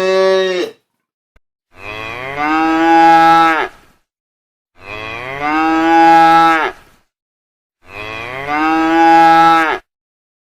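Cow mooing: the end of one moo, then three long moos that rise in pitch, about three seconds apart.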